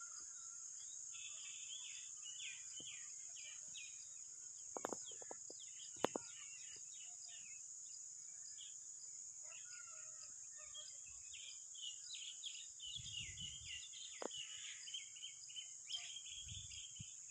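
Birds chirping in quick runs of short, falling notes over a steady high insect-like hiss, with two sharp clicks about five and six seconds in.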